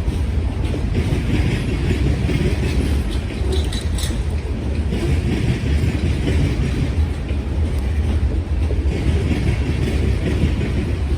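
BNSF freight train rolling past, a steady heavy rumble from the cars with wheels clattering over the rail joints.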